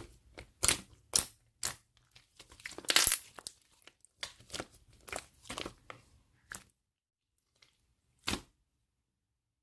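Mint-coloured Elmer's glue slime being squished and pressed by hand, a string of irregular wet pops and crackles. They stop after about seven seconds, with one more pop near the end.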